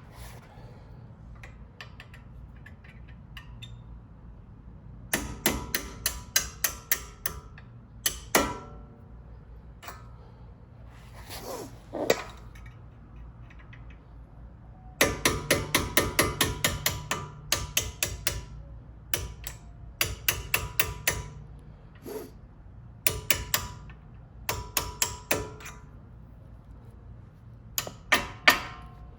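Hammer striking a pin punch to drive the retaining pins out of a front brake caliper, in several bursts of quick, ringing metal-on-metal taps, the fastest run at about four taps a second.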